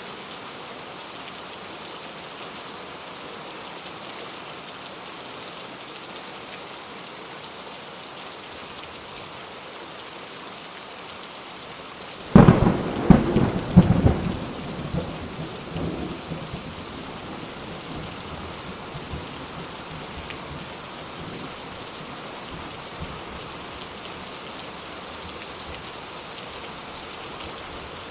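Steady rain falling, with a sudden thunderclap about twelve seconds in: several sharp cracks over a second or two, then a rumble that dies away over the next few seconds.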